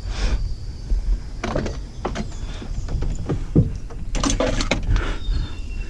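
Scattered knocks, clicks and clatter of tools and gear being handled, over a low steady rumble.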